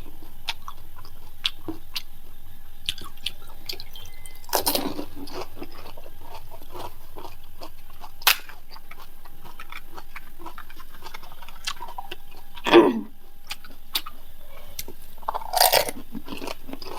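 Panipuri being eaten: crisp puri shells crunching and wet chewing, heard as many small crackling clicks with a few louder crunches. There is a short, low, falling vocal sound about three-quarters of the way through.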